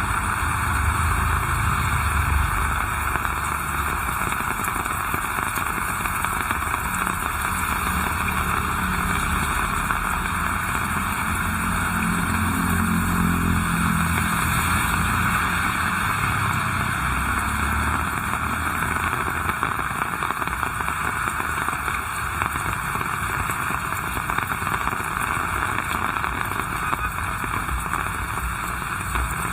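Heavy rain falling steadily, over a low rumble of traffic that swells once around the middle.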